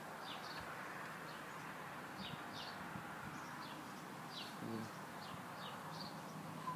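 Small birds chirping: short, high, falling chirps about two a second over a steady outdoor hiss.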